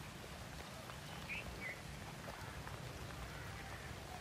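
Light rain falling over open fields, with a steady low rumble and scattered faint drop ticks. Two short, high bird chirps come a little over a second in.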